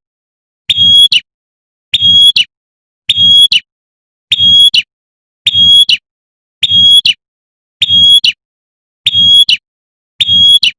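Female prinia giving its sharp 'tembakan' call, used as a lure to draw male prinias. One short, high call repeats nine times, evenly about every 1.2 seconds, like a loop.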